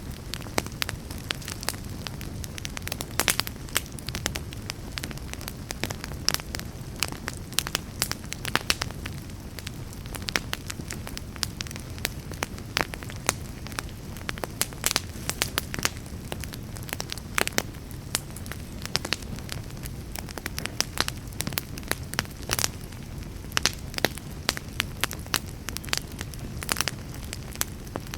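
Wood fire burning in a fireplace: a steady low hiss of flames with frequent sharp, irregular crackles and pops from the burning logs.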